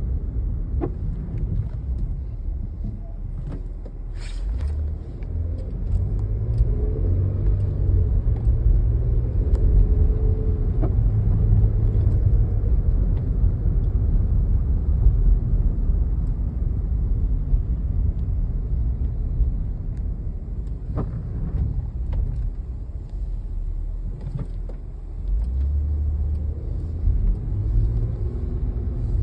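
A road vehicle driving: a steady low engine and road rumble that swells and eases a little, with a sharp click about four seconds in.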